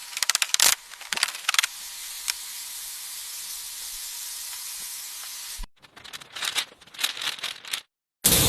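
A steady spraying hiss lasting about four seconds, cut off abruptly. Sharp clicks and knocks come before and after it.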